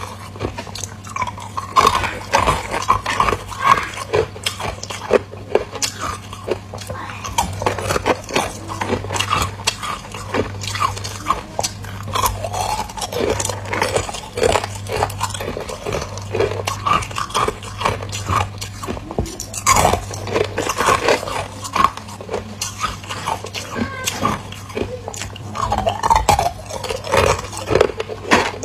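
A person biting and chewing ice close up, with repeated irregular crunches and crackles as the ice breaks between the teeth.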